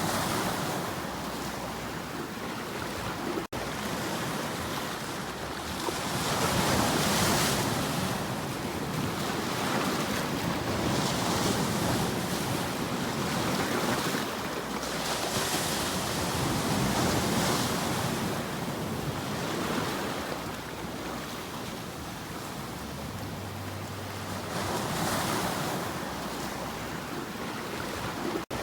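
Ocean waves washing in and receding, a steady rush that swells and fades every few seconds, with wind mixed in. Two momentary dropouts, one a few seconds in and one near the end.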